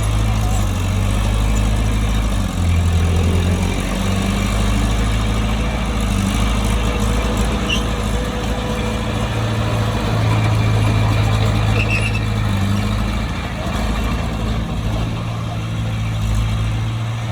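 Heavy diesel engine of a bulldozer running continuously with a low, steady note, which shifts briefly about three seconds in as the load changes.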